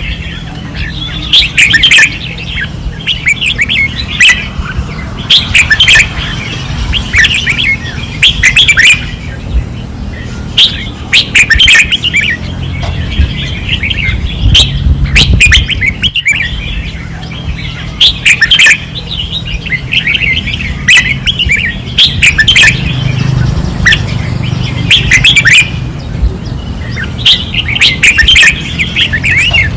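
Red-whiskered bulbuls singing loudly, short chattering song phrases repeated every second or two, over a low steady rumble.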